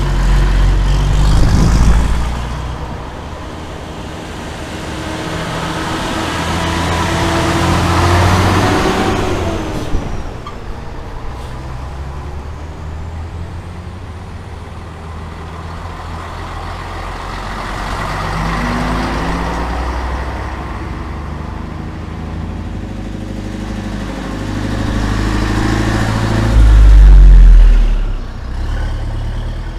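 Vintage Scania-Vabis Torpedo trucks' diesel engines driving past one after another. About four pass, each swelling and fading, and the loudest passes near the end.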